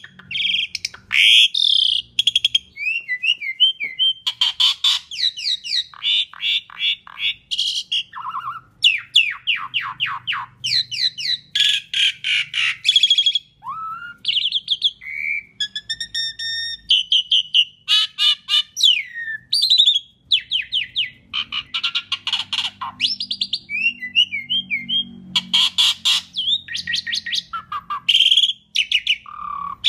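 Pied starling (jalak suren) singing a long, varied song with hardly a pause: fast clicking rattles, rapid trills, short whistled glides and harsh squawking notes.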